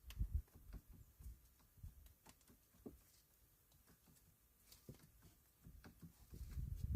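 Faint, scattered clicks and knocks, with a few low thumps right at the start and low rumbling near the end.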